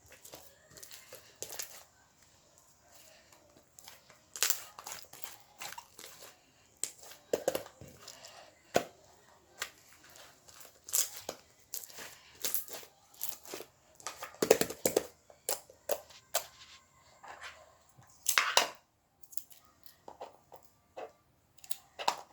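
Slime being squeezed and stretched by hand, giving irregular sticky crackles and clicks.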